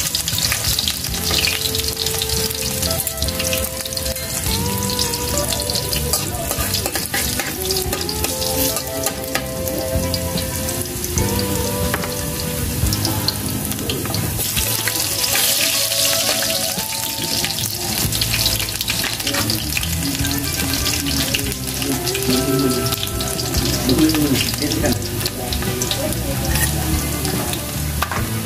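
Garlic sizzling as it sautés in hot oil in a wok. The sizzle gets louder a little past halfway, when chopped onion is tipped into the pan.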